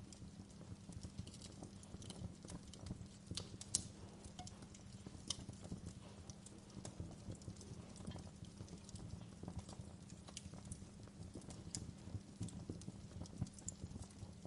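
Wood fire crackling in a fireplace: irregular sharp pops and snaps over a steady low rumble of burning, with a louder pop a little under four seconds in.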